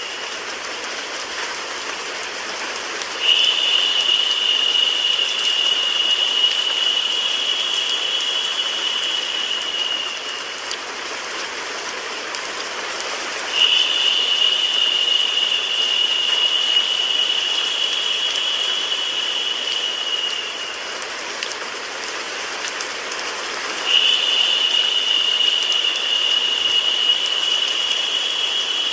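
Steady recorded rain mixed with white noise, an even hiss. A brighter, high-pitched hissing tone comes in three times and holds for about seven seconds each time, roughly every ten seconds.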